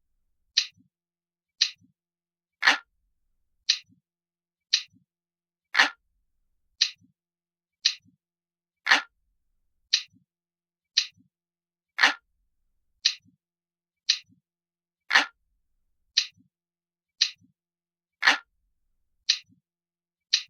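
Analog clock ticking steadily, about one tick a second, with every third tick louder and fuller.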